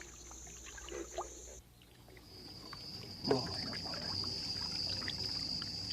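Canoe being paddled slowly through swamp water: soft paddle dips and small knocks against the hull, with one louder knock a few seconds in. A steady high-pitched trill runs behind it.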